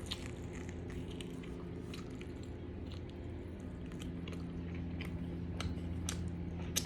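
A person chewing food with faint wet clicks and smacks of the mouth over a steady low hum. A couple of sharper clicks come near the end.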